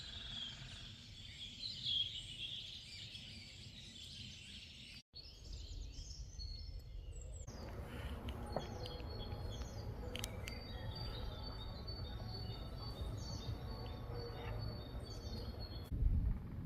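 Wild birds singing and chirping in a forest, several at once, over a low rumble of background noise. The sound drops out for a moment about five seconds in, and after that short, repeated downward-sweeping chirps and a thin steady whistle-like note stand out.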